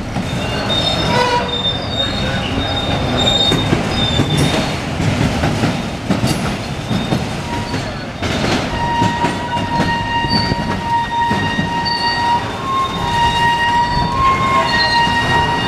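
Freight train of autorack cars rolling slowly past, with a steady rumble of steel wheels on rail. Wheels squeal in a high steady tone, briefly early on and continuously from about nine seconds in.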